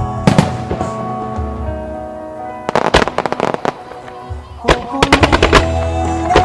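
Fireworks bursting over music played through loudspeakers: a bang just after the start, then quick strings of sharp reports about three and five seconds in.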